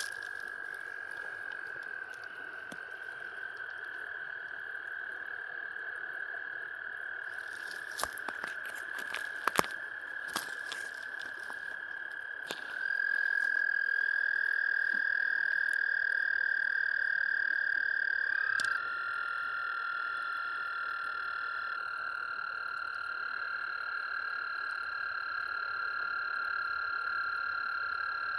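Frogs calling in chorus: several long, steady trills of slightly different pitch overlap, one louder trill starting about halfway through and stopping about six seconds later. A few sharp clicks come near the middle.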